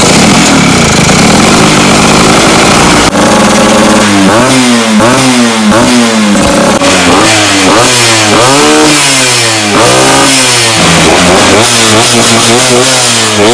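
Vespa PX 150's two-stroke single-cylinder engine running loud and being revved in repeated throttle blips, the pitch rising and falling about once a second after the first few seconds.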